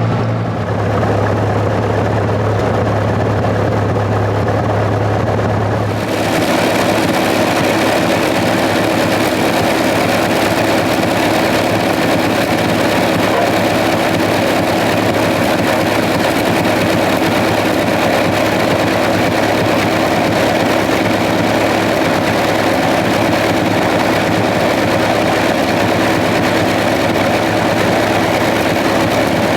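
Massey Ferguson 35 tractor's four-cylinder petrol engine running steadily; about six seconds in the sound changes abruptly to a higher, fuller note and holds there.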